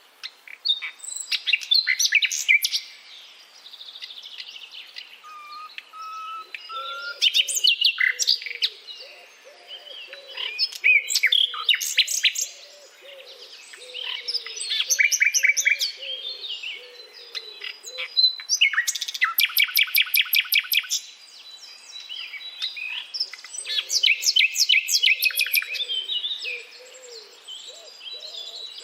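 A nightingale singing: phrases of a few seconds each made of rapid repeated notes and trills, separated by short pauses. A fainter, lower wavering sound runs beneath several of the phrases.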